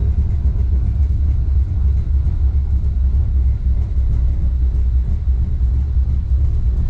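Wuppertal Schwebebahn suspended monorail car running, a steady low rumble with no breaks.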